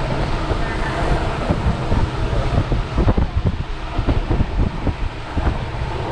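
Indian Railways express train running at speed, with a steady low rumble, irregular knocks and rattles, and wind buffeting the microphone.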